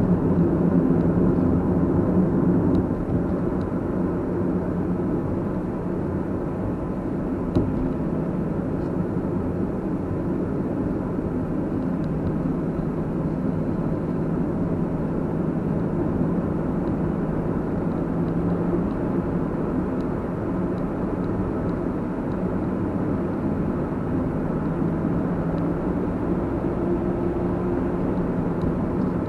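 Car driving along: steady engine and road rumble with a low hum, easing a little about three seconds in.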